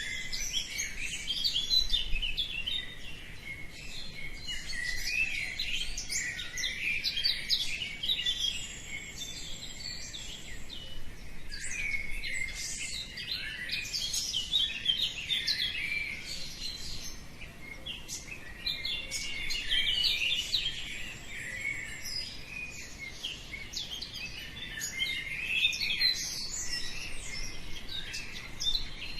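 Many small songbirds singing and chirping at once, a dense chorus of quick high notes overlapping without a break.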